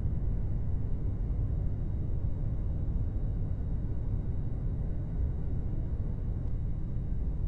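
Steady low rumbling drone of an airliner cabin in flight.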